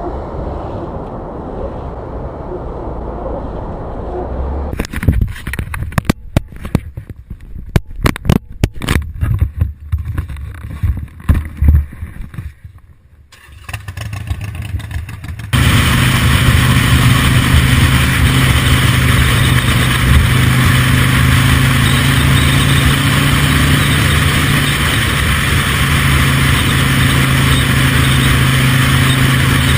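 Road-vehicle noise: a low rumble, then about eight seconds of many loud, sharp knocks and bangs, then a steady engine drone with a low hum starting about halfway through.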